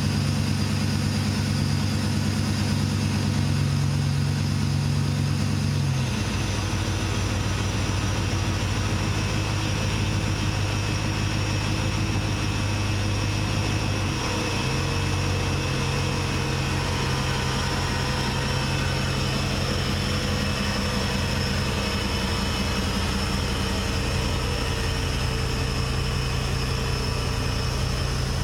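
Car engine idling steadily, its note shifting slightly about six seconds in and again around fourteen seconds.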